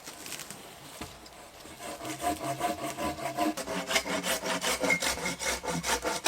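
Wood being sawn by hand: quick, even back-and-forth strokes that start about two seconds in and stop suddenly at the end.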